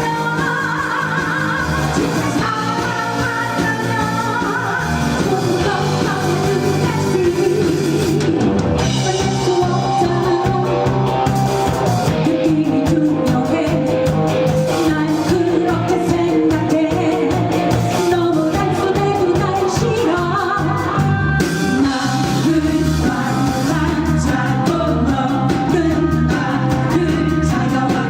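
Amplified live rock band playing a Korean pop song: a voice singing over electric guitar, bass and a steady drum beat.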